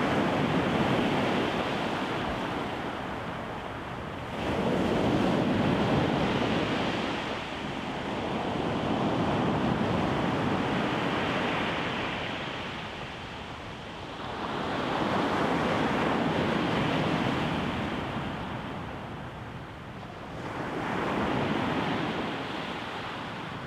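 Rough surf breaking on a beach, the noise of the waves swelling and fading four times, about every five to six seconds.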